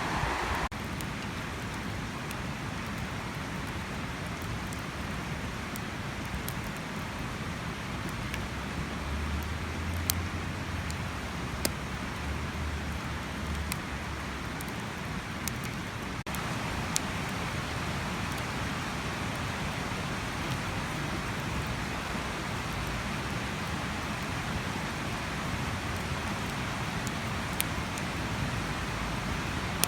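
Wood campfire burning: a steady rushing hiss with a few sharp, widely spaced crackling pops.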